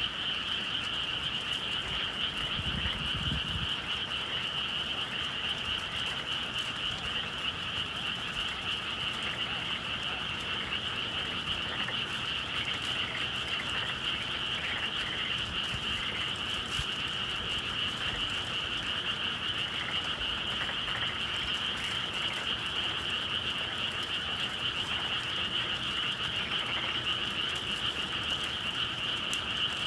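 Dense chorus of many frogs calling at once, a steady, unbroken high trilling with no pauses, typical of a spring night in the countryside.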